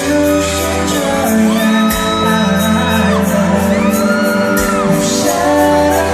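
Live K-pop concert sound: loud, distorted, bass-heavy music with singing over the PA, and high screams from the crowd rising and falling twice over it.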